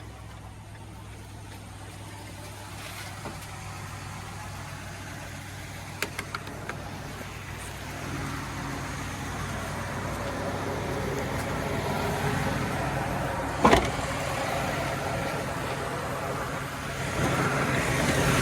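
A 2012 Ford F-250's 6.2-litre gas V8 idling steadily, with a rushing noise that grows louder through the second half. A few light clicks come about six seconds in, and a single sharp knock comes a few seconds before the end.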